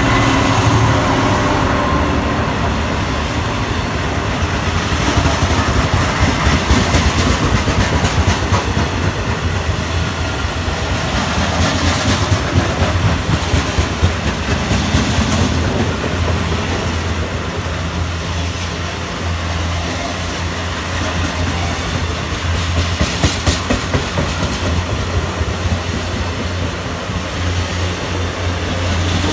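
Freight train of box wagons rolling past behind a Class 66 diesel locomotive. The locomotive's engine fades in the first couple of seconds, then there is a steady low rumble of wagon wheels on the rails with repeated clatter over the rail joints.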